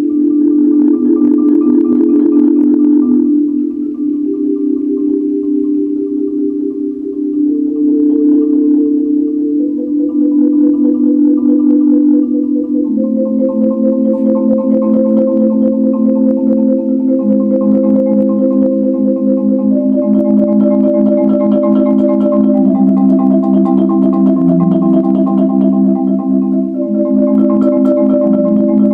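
Solo marimba playing a slow chorale: sustained chords of several notes in the instrument's middle range, moving to a new chord every few seconds.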